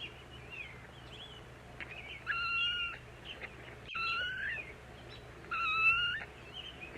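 Kitten meowing: three high, fairly level meows spaced about a second and a half apart, with short faint high chirps in between.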